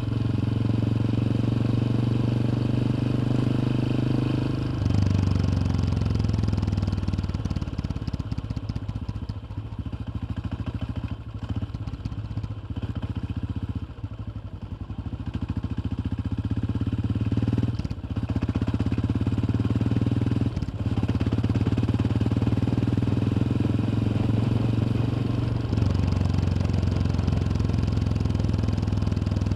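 Yamaha XT 600's single-cylinder four-stroke engine pulling steadily while riding. About five seconds in the note drops as the throttle eases off, and it stays quieter for a stretch before picking up again and settling into a steady pull.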